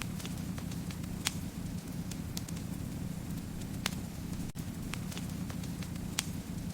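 Wood fire crackling, with sharp irregular pops over a steady low rumble of burning. There is a split-second dropout about four and a half seconds in.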